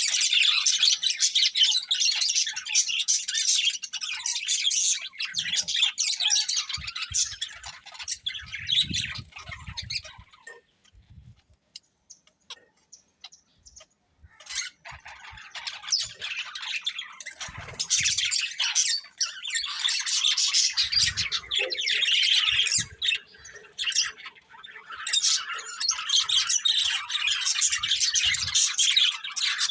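Budgerigars chattering and warbling with fast, high chirps and squawks. The calling stops for about four seconds near the middle, then starts again.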